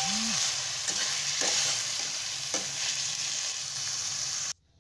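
Marinated chicken and onions sizzling in hot oil in a nonstick kadhai while being stirred with a slotted spatula, with a few clicks of the spatula against the pan. The sizzle cuts off suddenly near the end.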